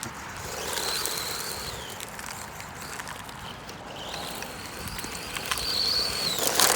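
WLtoys 124018 RC car's brushed 550-size electric motor whining high at speed, heard twice: a short run about a second in, then a longer one that rises in pitch and holds before dropping away near the end. A few sharp clicks come right at the end.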